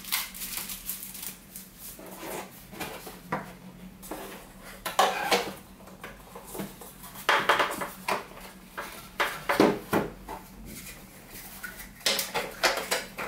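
Hard plastic vacuum-cleaner parts and accessories being handled and set down, an irregular clatter of knocks and rattles with the loudest knocks in the second half.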